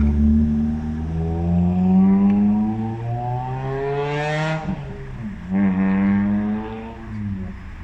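Heavy truck's diesel engine pulling away under load, its pitch climbing for about four seconds, dropping at a gear change, then climbing again and falling away near the end.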